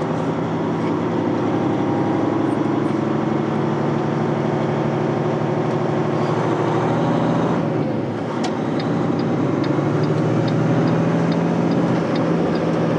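Semi-truck diesel engine running steadily under way, heard from inside the cab. About eight seconds in the engine note dips briefly, then a sharp click is followed by a light, even ticking about two and a half times a second.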